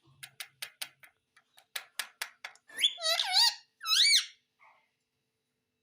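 An Indian ringneck parrot: a run of sharp clicks, about five a second, then two high-pitched, warbling calls that rise and fall in pitch, one about three seconds in and one about a second later.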